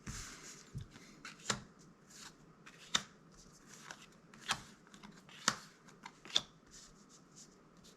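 Magic: The Gathering trading cards being flipped through one at a time, each card sliding off the stack with a short snap, roughly one a second at an uneven pace.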